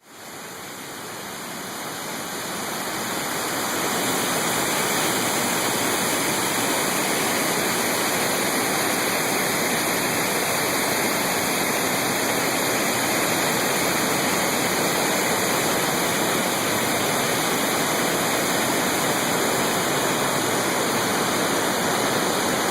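Waterfall rushing steadily, a continuous wash of falling water that fades in over the first few seconds.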